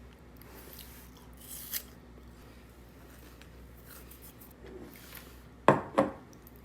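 Faint handling rustles, then two sharp knocks with a short ring about a third of a second apart near the end, like a hard object set down or tapped.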